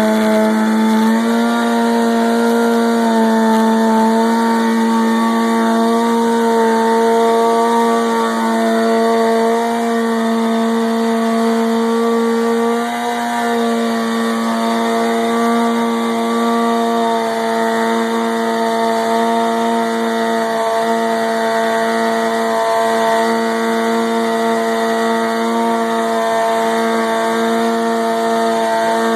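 Motorcycle engine held at high revs in a long, steady burnout, its pitch nearly constant, stepping up slightly about a second in and dipping briefly midway, as the rear tyre spins against the floor.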